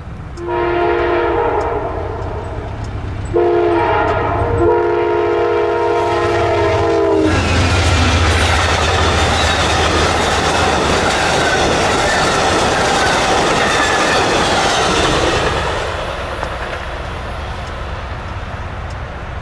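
Amtrak passenger train's locomotive horn blowing a long blast, a short one and a long one, as for a grade crossing, its pitch dipping slightly as the locomotive passes. Then the passenger cars run past with steady rolling wheel and rail noise, fading after about sixteen seconds.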